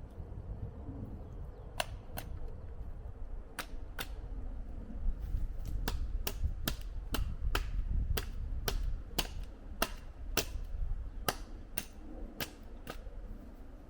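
A run of sharp clicks, starting about two seconds in and coming about twice a second, over a low steady rumble.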